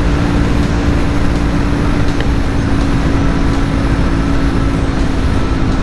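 Jawa 42's single-cylinder engine through its stock exhaust, held at full throttle in sixth gear at about 120 km/h, a steady drone at one pitch under heavy wind rush on the microphone.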